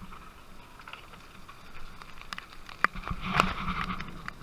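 Rain falling steadily, with a few sharp clicks and knocks in the second half.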